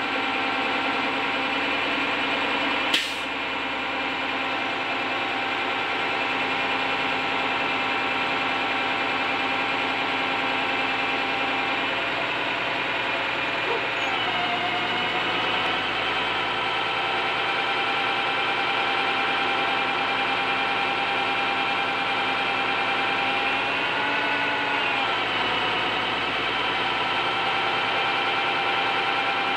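Bucket truck's engine running steadily. Its pitch drops a little about halfway through and dips briefly before settling again near the end. A single sharp click comes about three seconds in.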